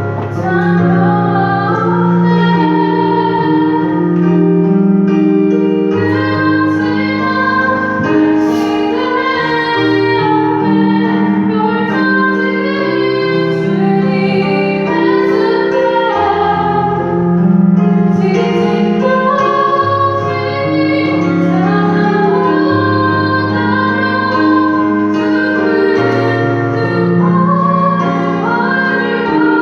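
A woman's solo voice singing a slow sacred song, with held, wavering notes over keyboard accompaniment playing sustained chords.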